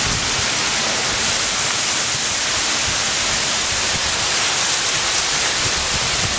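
Hailstorm: hail and rain pouring down in a loud, dense, steady hiss.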